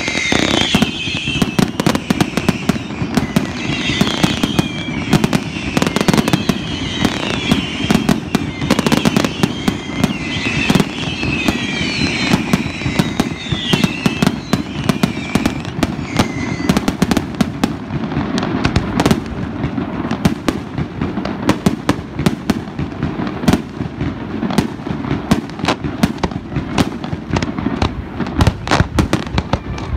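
Fireworks display: a rapid, continuous barrage of bangs and crackling from shells and mines going off over the water.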